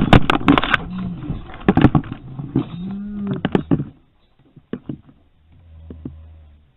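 Vehicle-crash aftermath: a run of sharp knocks and clattering, with two drawn-out low wavering calls, dying away about four seconds in; a low hum near the end.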